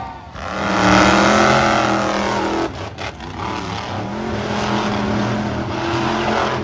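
Monster truck engine at high revs: it surges to full throttle about half a second in, cuts off abruptly a little before the middle, then picks up again and runs on steadily.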